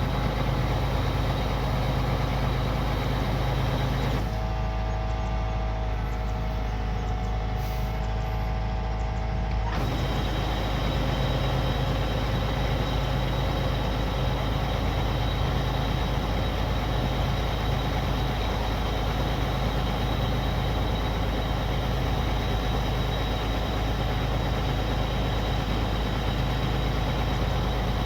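Kubota combine harvester's diesel engine running steadily under working load. For about five seconds, starting four seconds in, the sound turns duller, then returns to the fuller drone.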